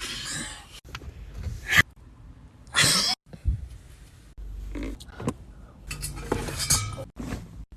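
A person's wheezing, donkey-like laughter in several short, breathy bursts with pauses between them.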